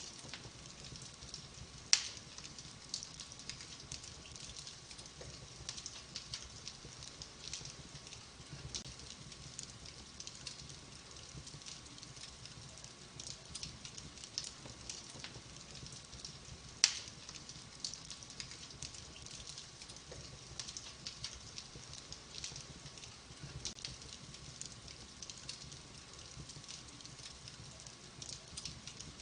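Wood fire burning in a fireplace, crackling with many small snaps and two louder sharp pops, about two seconds in and near seventeen seconds.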